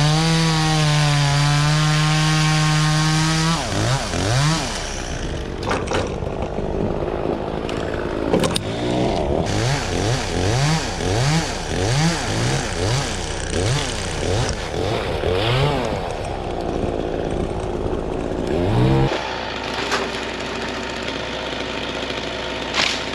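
Two-stroke chainsaw held at full throttle for a few seconds, then revved in short repeated bursts, about one every three-quarters of a second, as in limbing or cutting small wood. Near the end the saw drops away, leaving a steady low engine running.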